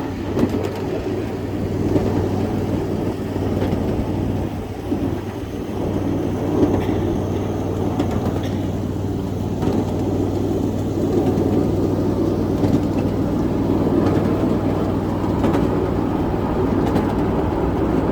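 A 7.5-inch-gauge ride-on miniature train running along its track: a steady rumble of wheels on rail under a low steady hum, with a few sharp clicks.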